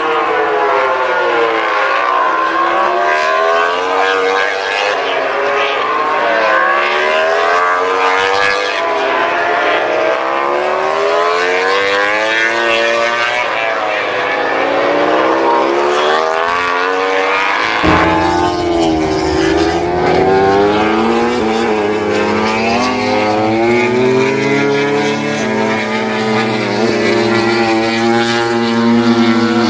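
Racing motorcycle engines screaming up through the gears again and again, the pitch climbing and dropping at each shift as several bikes overlap. About two-thirds of the way through a steadier low drone joins in beneath them.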